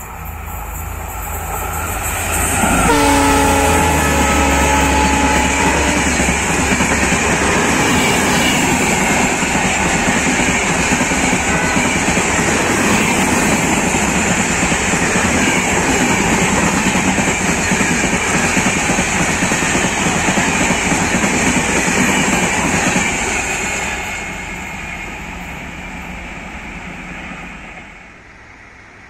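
An approaching Indian Railways locomotive sounds its horn for about three seconds, a few seconds in, then a fast passenger train rushes past with loud, steady wheel-on-rail noise and clickety-clack. The noise fades as the last coaches pass, near the end.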